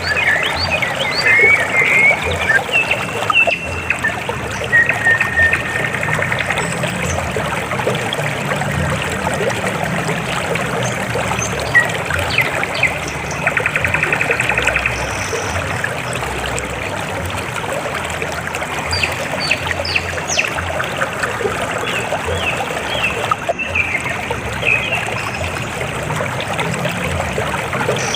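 River water flowing in a steady trickle, with short high chirps and trills scattered over it.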